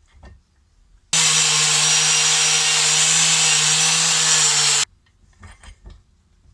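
A power tool, such as a grinder or wire wheel used to take rust off a steel spanner, running steadily for about four seconds. There is an even rushing noise over a steady motor hum, and it starts and stops abruptly. A few light clicks of handling follow.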